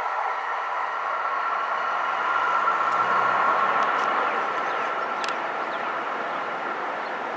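Amtrak passenger train that has just passed, receding: a steady rolling noise of wheels on rail that slowly fades.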